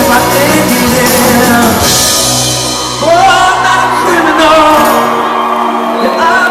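Live rock band playing with a singer's voice over it, heard with the reverberation of a large space. The lowest notes drop out about five seconds in, leaving a held chord under the voice.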